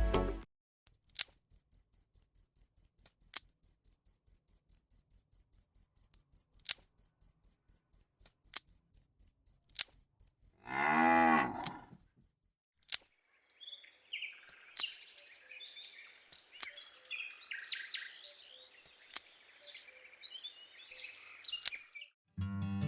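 Crickets chirping in a steady pulse, about three chirps a second; a cow moos once, a long call, about ten seconds in. After the moo, small birds twitter and chirp.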